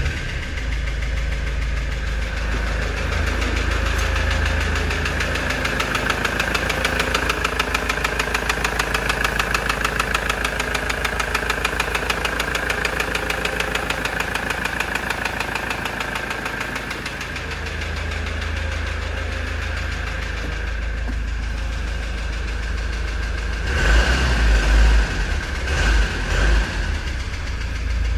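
Ford Transit 2.4 diesel engine running with a steady rhythmic knock, with a few short louder surges near the end. The mechanics judge it most likely a scored piston in the first cylinder, though they will first rule out fuel starvation at the injectors.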